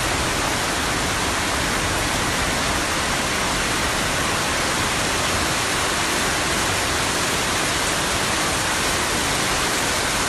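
Heavy rainstorm: a steady, dense rush of pouring rain and running water that does not let up.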